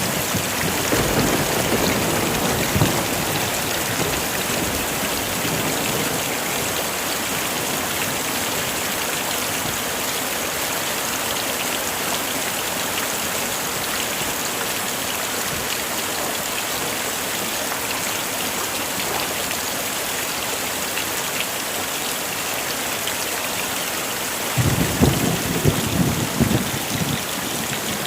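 Heavy rain falling steadily, with low rolls of thunder rumbling about a second in and again near the end.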